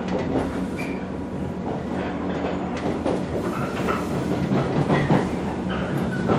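The running sound inside a 115 series electric train car: its MT54 traction motors hum steadily at speed over the roar of the wheels on the rails, with scattered clicks and knocks from the track.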